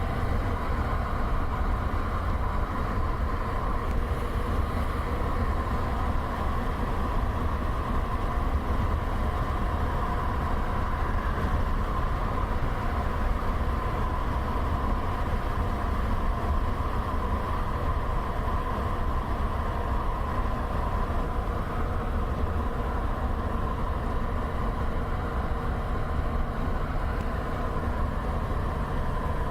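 Steady noise of a car driving along a highway: a deep rumble of tyres on the road and engine, unchanging throughout.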